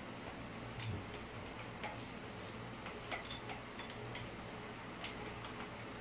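Faint, irregular light clicks and ticks of a power drill's bit being swapped: metal-on-metal handling of the chuck and drill bit.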